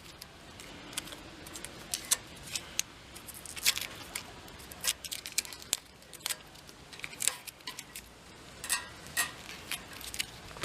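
Irregular sharp metallic clicks and clinks, like small tools and parts being handled and set down at a workbench.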